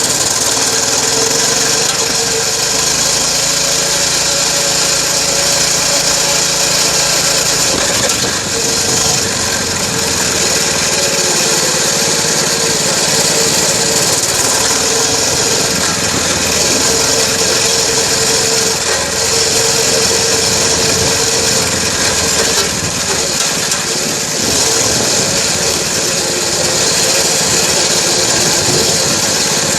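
Dirt bike engine running while being ridden, its note steady for the first several seconds and then rising and falling with the throttle, heard close up from a camera mounted on the bike's headlight, with a dense rush of wind noise over it.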